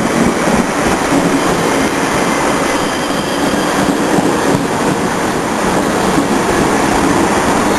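South West Trains passenger train running at a station platform: a steady, even rail rumble with a few faint steady tones over it.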